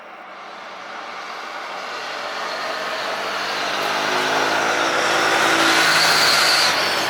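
A vehicle approaching and passing close by, its noise growing louder for about six seconds and then falling away sharply near the end.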